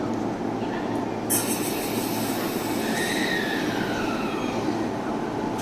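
JR East E531 series electric train pulling out of a station. About a second in comes a sudden hiss that fades slowly, and later a whine slides down in pitch over the steady running noise.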